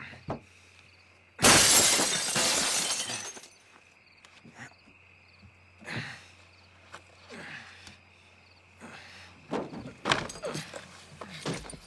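A car-crash sound effect: a sudden loud crash of breaking, shattering glass that dies away over about two seconds, followed by scattered knocks and crunches of debris.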